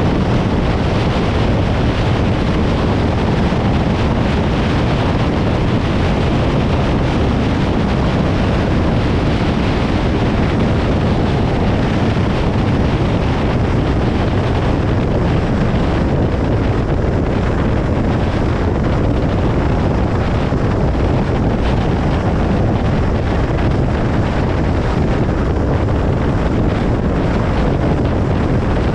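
Steady road and tyre noise of a car driving at highway speed, an even rumble that never changes.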